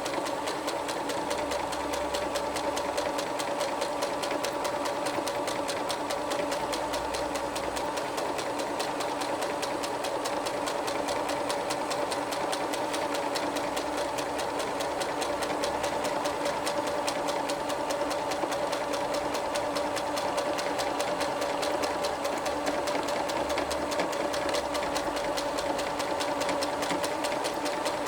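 Electric sewing machine stitching heavy fabric, its motor humming steadily under a fast, even patter of needle strokes without a break.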